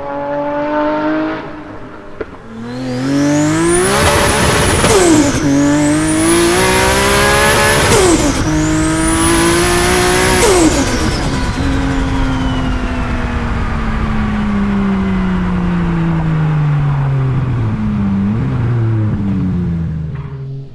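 Toyota Supra's big-turbo 2JZ straight-six accelerating hard, revving up steeply through three gears with quick upshifts, a high turbo whistle climbing with each pull. The engine note then falls away for several seconds, with a short rev blip near the end.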